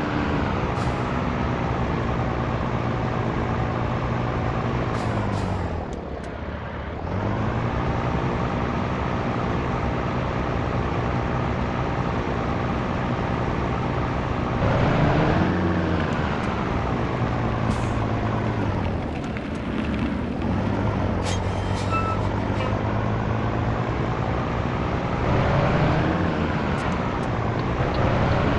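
Scania T113 truck's diesel engine pulling through the gears: the engine note falls away at each gear change and climbs again as it picks up speed, several times over.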